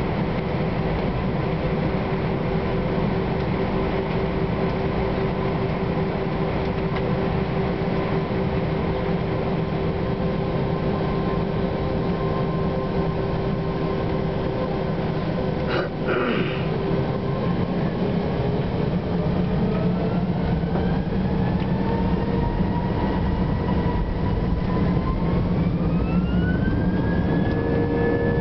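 Airbus A320 cabin noise with the jet engines running steadily, a brief knock about halfway through, then the engine whine rising in pitch over several seconds and settling higher near the end as the engines spool up, as for the takeoff roll.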